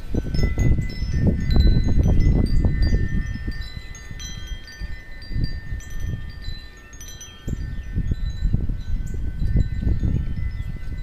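Metal wind chimes ringing, several tones sounding at once and new ones struck every so often, over loud, gusting wind rumble on the microphone that eases off in the middle.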